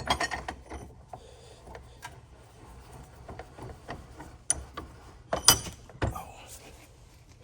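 Scattered metal clanks, taps and clicks of tools and parts being handled on a hydraulic cylinder clamped in a bench vise, with a sharper knock right at the start and another about five and a half seconds in.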